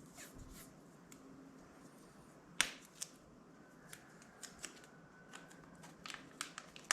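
Masking tape being pulled and torn by hand while covering parts, with scattered crinkles and sharp clicks; the loudest snap comes about two and a half seconds in, and a faint thin whine runs through the middle.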